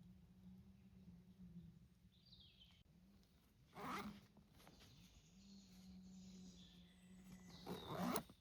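Two short rasping, zipper-like scrapes, each about half a second long, one near the middle and one near the end, over a faint steady low hum and a brief high chirp early on.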